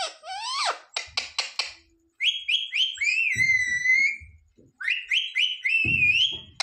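Pet green parrot calling and whistling without words. A few rising calls open, then a quick run of clicks, then two runs of short chirps, each running into a long wavering whistle.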